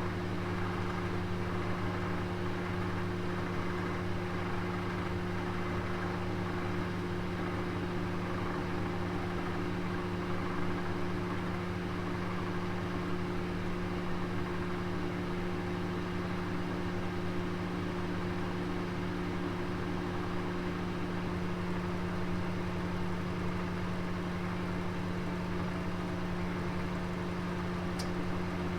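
Oven running while it cooks: a steady low mechanical hum over an even rushing, fan-like noise, unchanging throughout.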